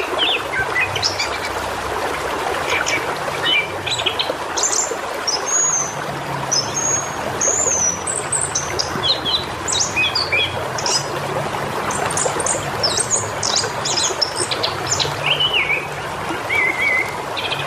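Birds chirping and whistling, many short notes and some gliding whistles, over the steady trickle and rush of flowing water.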